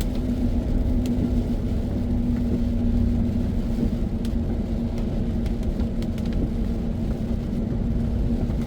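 A vehicle driving at a steady speed, heard from inside the cab: a constant low rumble of engine and road with a steady hum.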